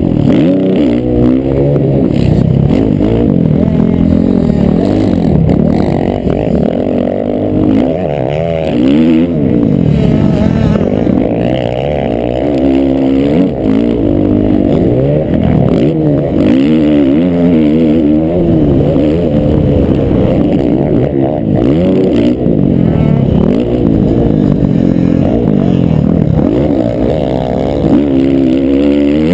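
A pack of motocross bikes racing, several engines revving up and down at once, their pitches rising and falling continuously and overlapping.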